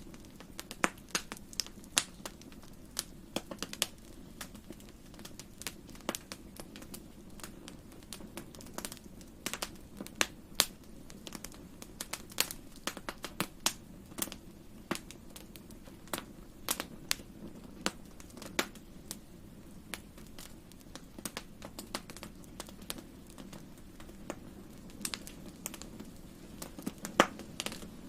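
Fireplace fire crackling: irregular sharp pops and snaps, several a second, over a steady low rumble of the flames, with one louder pop near the end.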